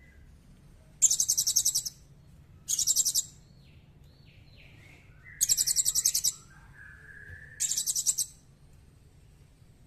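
Small songbird calling: four short, very high-pitched, rapid trills, each about a second or less, with fainter lower whistled notes in between.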